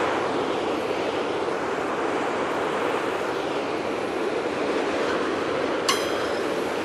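Autorack freight cars rolling past at steady speed: a continuous rush and rumble of steel wheels on the rails. About six seconds in, one sharp metallic clink that rings briefly.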